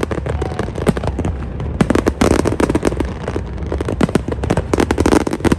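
Fireworks display: a dense, continuous rapid crackle and popping of many shells over a steady low rumble, easing briefly about a second in and then building again.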